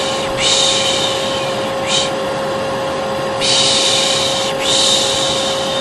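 Hair dryer running with a steady hum and whine, overlaid by a person's drawn-out 'shhh' shushing, repeated four times with brief breaks between. Both are held going as a soothing noise for a colicky baby.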